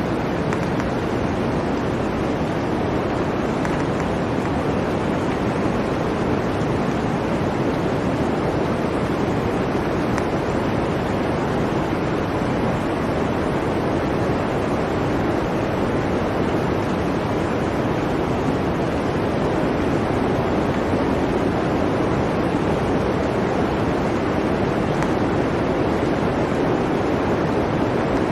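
Steady blizzard wind, an even rushing noise that does not let up, with no gusts or breaks standing out.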